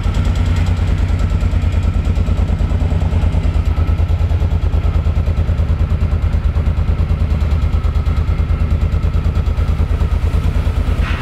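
2009 Suzuki Boulevard M50's 800cc V-twin engine idling steadily, with an even, rapid beat.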